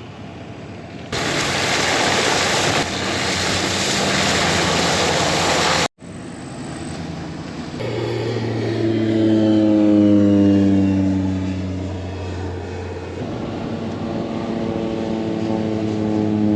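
Crop-dusting propeller airplane passing. First a loud, even rushing noise that cuts off abruptly, then the plane's engine and propeller with a drone whose pitch falls as it goes by and then holds steady.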